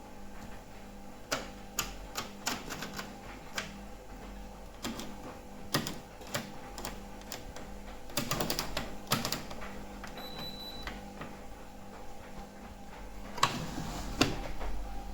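An Indesit washing machine being handled and operated: irregular clicks and knocks, a short high electronic beep about ten seconds in, over a steady low hum.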